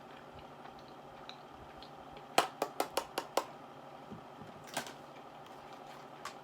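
A quick run of about six light, sharp taps or clicks within about a second, then one more tap a little under two seconds later.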